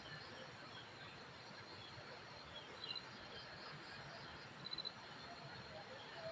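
Faint outdoor ambience with insects chirping: short trains of high, rapid chirps come twice, about 3 and 5 seconds in, over a steady hiss.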